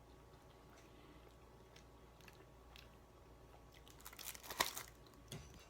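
A person chewing spicy instant ramen noodles close to the microphone: faint mouth clicks, then a short run of louder chewing and biting noises about four seconds in, and a smaller one just before the end.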